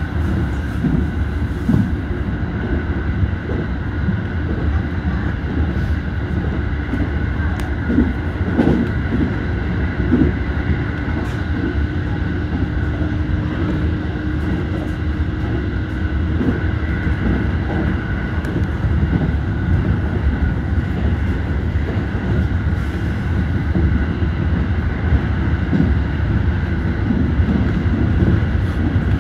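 JR Central 313 series electric train running along the line, heard from inside the driver's cab: a steady rumble of wheels on rails with a steady hum through it and occasional short clicks and knocks.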